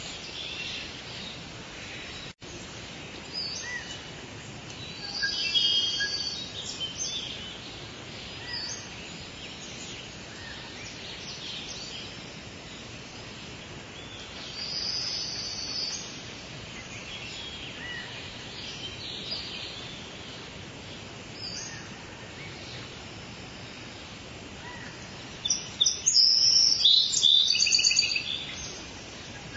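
Soft, steady rain hiss with small birds chirping over it now and then; the loudest is a burst of rapid chirps near the end.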